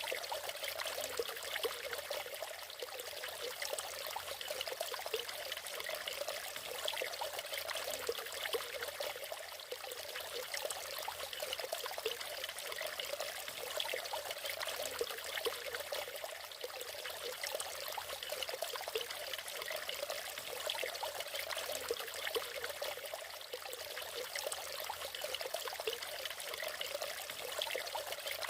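Natural waterfall: water falling and trickling steadily, with a fine, even splashing and little low rumble.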